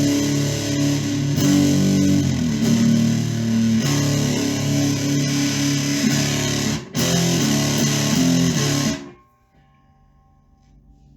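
Electric guitar played through a hand-built point-to-point fuzz pedal: thick, distorted, changing notes with a brief break near seven seconds. The playing stops about nine seconds in, leaving a faint fading ring.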